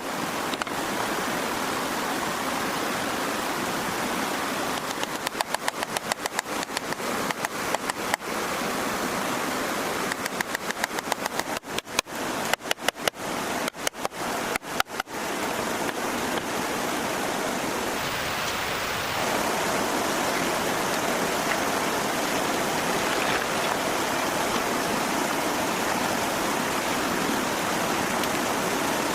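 Steady rushing water like a stream, with several runs of rapid knocking, about three knocks a second, in the first half.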